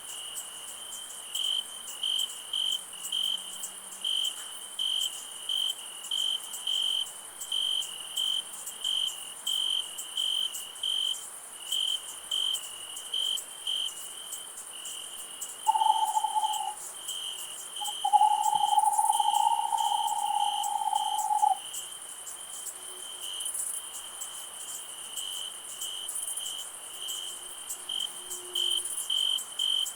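Crickets chirping in a steady rhythm, about two chirps a second, over a continuous high insect hiss. About halfway through, a steady whistle-like tone sounds twice, first briefly and then for about three seconds.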